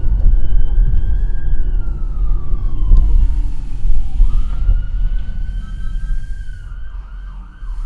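Police car siren wailing in slow falling and rising sweeps, over a steady low rumble of road and engine noise.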